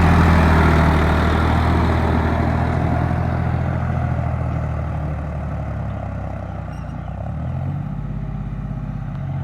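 John Deere 5045 tractor's three-cylinder diesel engine running steadily, getting gradually quieter over most of the clip, with a change in its note about three-quarters of the way through.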